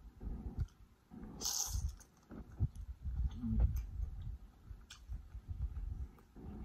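Close-miked mouth sounds of eating boiled lobster meat: soft, irregular chewing with small wet clicks. A brief hissing slurp comes about one and a half seconds in.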